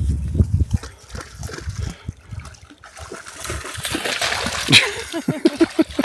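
A dog splashing as it runs through shallow lake water. The splashing grows louder from about three seconds in.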